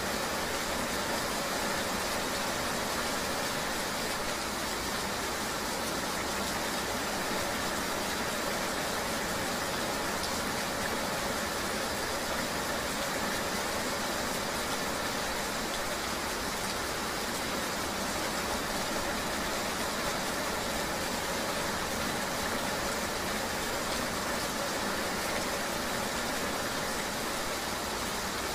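Steady rain-ride ambience: an even, unbroken wash of rain and road noise with a faint steady engine hum underneath.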